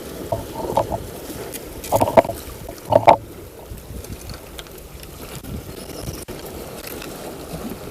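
Steady wind and water noise aboard a small fishing boat, broken by a few short, loud knocks about half a second, two and three seconds in, the last the loudest.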